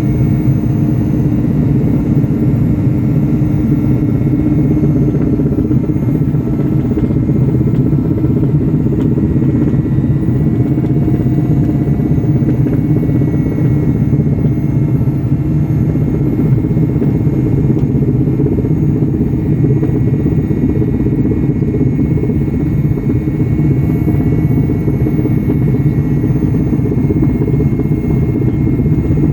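Helicopter in flight: a loud, steady drone of engine and rotor that holds the same pitch throughout.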